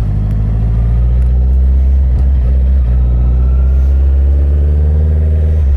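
Inline-four car engine running at steady low revs.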